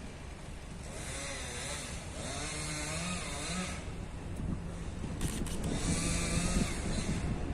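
Diesel-hauled freight train of tank wagons passing, led by Class 66 locomotive 66178: a steady engine drone under the rolling noise of the wheels, with a wavering whine over it.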